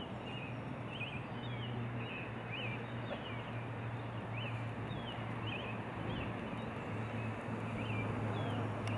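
Short high chirps, like small birds calling, repeating irregularly over a steady low hum and background noise.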